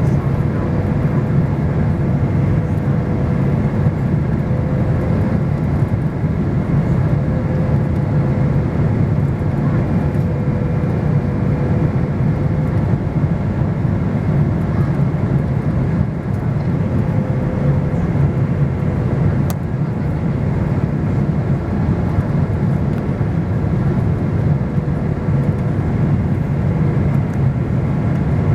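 Steady low rush of jet engines and airflow heard inside an airliner's passenger cabin, with a faint steady hum above it.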